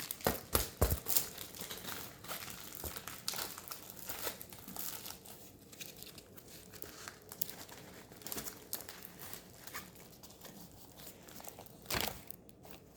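Packaging crinkling and rustling in the hands as a diamond painting kit is handled, in irregular crackles that are busiest in the first half, with a louder rustle near the end.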